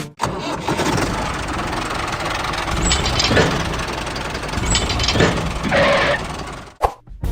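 Small motor of a DIY miniature tractor and wheat-threshing model running with a dense, steady rattle; it cuts off abruptly near the end.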